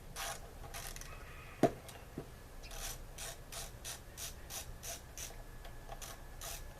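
Socket ratchet wrench clicking in short, even strokes, about three a second, while the nuts holding the carburetor cover of an MTD push lawnmower are loosened. A single sharp knock comes before the ratcheting begins.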